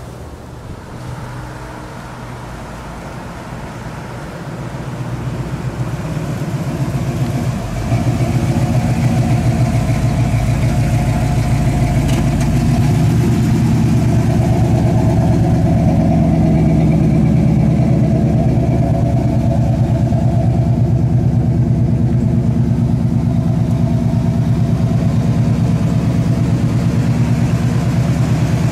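1977 Pontiac Trans Am's 400 V8 engine, getting louder over the first several seconds as the car comes near, then running steadily close by at a low, even speed.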